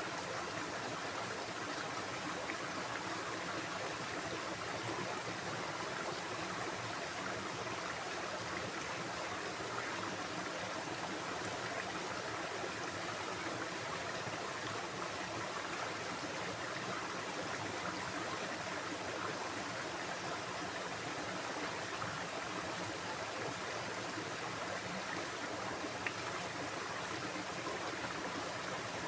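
Stream water running, a steady even rushing with no pauses. A single faint click sounds near the end.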